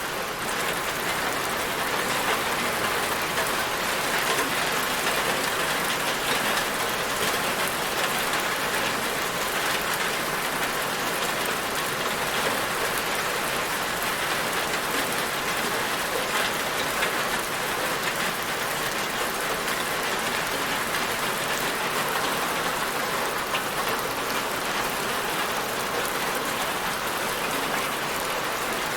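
Steady rain falling on a surface, an even dense hiss with fine patter and no thunder.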